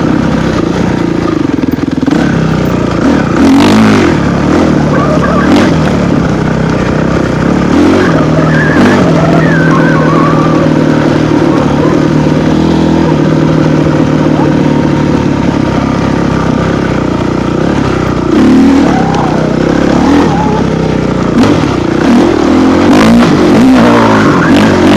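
An off-road vehicle's engine running hard under load while riding, its pitch rising and falling again and again as the throttle opens and closes.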